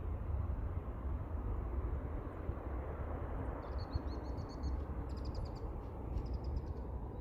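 Low, steady rumble of distant airport jet traffic, with a small bird chirping in three short bursts of rapid high trills from about halfway through.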